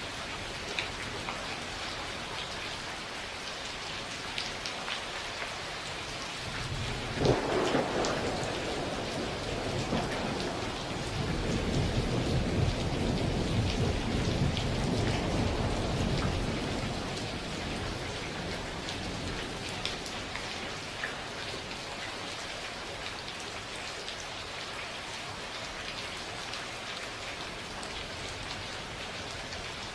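Steady rain falling, with scattered drops ticking, and a thunderclap about seven seconds in that rolls into a long, low rumble, fading by about seventeen seconds.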